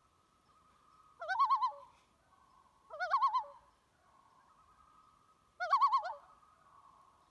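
A bird's short wavering calls, three of them, each about half a second long, with a faint steady tone in the gaps between them.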